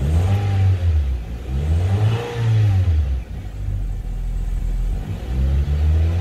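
2002 Honda Civic four-cylinder engine revved three times from idle while parked, the third rev starting near the end. The revs rise and fall cleanly with no stutter, a test of a newly replaced fuel pump for hesitation.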